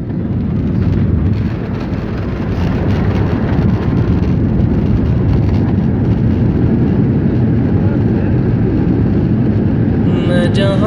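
Airliner landing: a loud, steady rumble of engine and air noise, heaviest in the low end. Near the end, a wavering melodic voice or music comes in over it.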